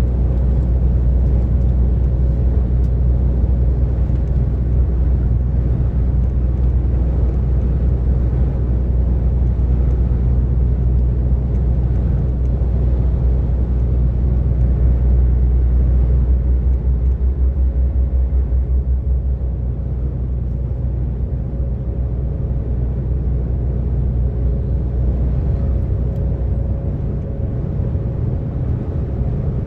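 DAF XF 460 truck's diesel engine running at cruising speed, with tyre and road rumble: a steady low drone with a faint steady whine above it. The drone pulses briefly and softens a little a bit past halfway.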